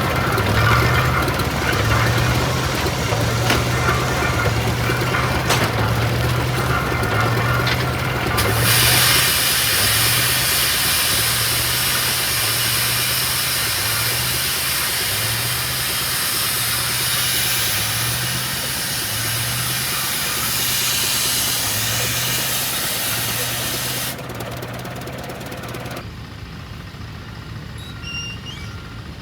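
An engine running at a slow, even beat, a little more than one pulse a second. A loud hiss joins about a third of the way in and cuts off near the end, and the engine beat stops soon after.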